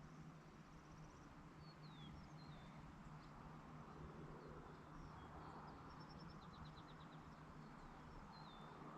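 Faint birds calling: scattered short down-slurred chirps and a few quick trills, over a steady low hum and soft background hiss.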